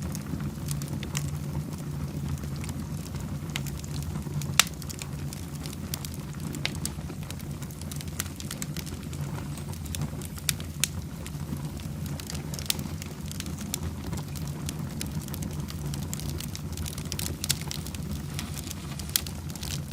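Wood fire burning in a fireplace: a steady low rumble of flame with irregular sharp crackles and pops from the burning logs, one louder pop about four and a half seconds in.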